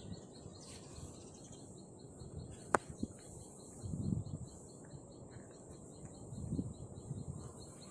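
Insects chirping in a fast, even pulse of a high note over a steady high buzz, with a single sharp click a little under three seconds in and some soft low rustling.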